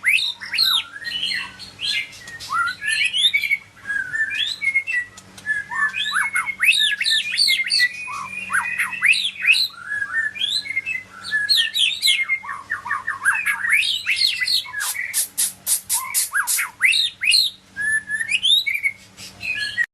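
White-rumped shama (Medan murai batu) singing a long, varied song of quick rising and falling whistled notes, with a fast run of repeated notes about three-quarters of the way through.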